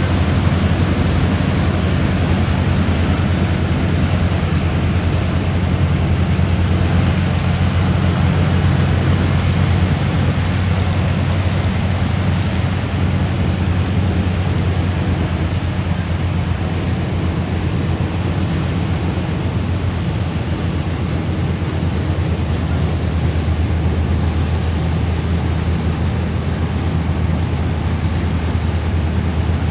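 Combine harvester running steadily: a deep, constant engine drone with a broad rushing noise over it.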